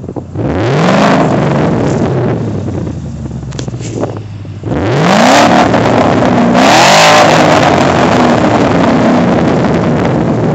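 2012 Ford Mustang GT's 5.0 V8 through a Flowmaster Hushpower cat-back exhaust, revving up twice. The first rise comes about half a second in; the second, near five seconds in, climbs higher and stays up longer before easing off.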